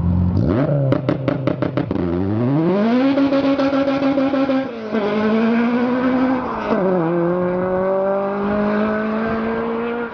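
Car engine idling, then blipped with a rapid run of sharp pops, then accelerating hard: its pitch climbs, drops at a gear change about five seconds in and again about two seconds later, and climbs more slowly after each shift.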